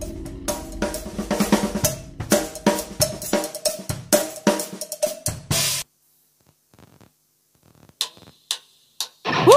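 Electronic drum kit (NUX DM-7X) playing a busy run of snare, cymbal and kick hits for about six seconds. This is followed by a near-silent pause broken by three single hits, and the full band of the backing track comes in loudly at the very end.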